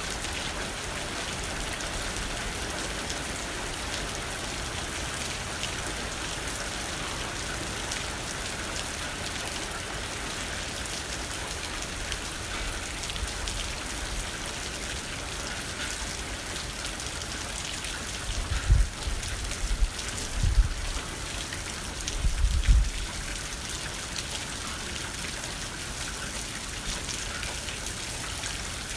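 Steady rain pattering on a window pane, a dense hiss of small drop hits. About two-thirds of the way in, three short low rumbles stand out, louder than the rain.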